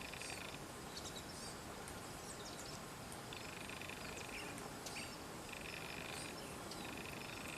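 Outdoor natural ambience: a high, even buzzing trill, most likely an insect, comes in stretches of about a second, three times, over scattered short, high bird chirps.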